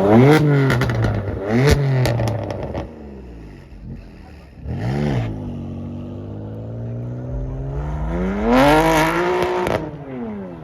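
Car engine revving hard: two sharp rev blips near the start with a burst of exhaust crackles and pops, a short blip about five seconds in, then a longer rev that climbs and falls away near the end.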